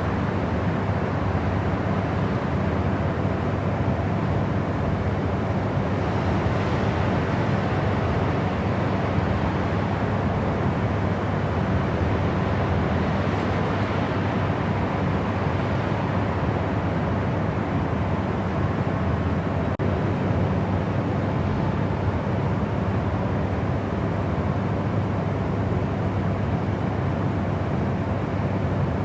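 Steady white noise: a constant, unchanging hiss, heavier in the low end with a deep rumble under it.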